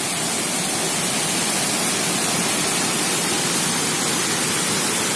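Waterfall: water rushing steadily down the rocks, a constant, unchanging noise.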